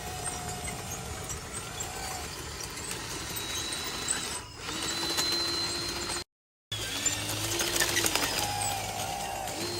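Small electric motors and gearboxes of radio-controlled construction models whining, their pitch shifting up and down as they drive, with scattered clicks. The sound cuts out completely for about half a second roughly two-thirds of the way in.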